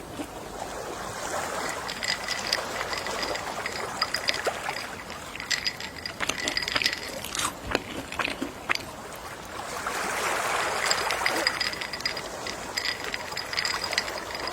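Gentle sea waves washing ashore, two slow surges of wash about nine seconds apart, with scattered small splashes and clicks of water. Faint high chirping tones come and go over the wash.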